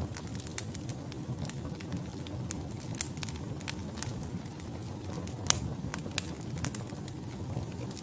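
Wood fire burning in a fireplace: logs crackling with irregular sharp pops over a steady low rumble of flames.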